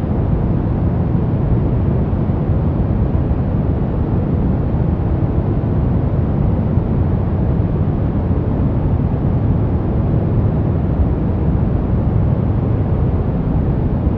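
Continuous white noise for sleep: a steady, unbroken rushing hiss, weighted toward the low end, so it sounds deep rather than bright.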